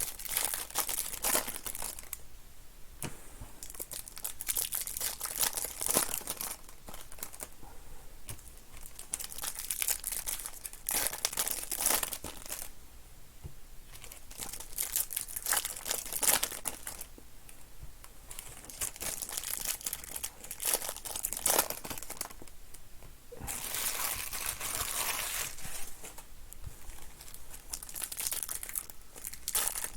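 Trading-card packs being torn open and their wrappers crinkled by hand, in irregular bursts of rustling and tearing, with a longer spell of crinkling near the end.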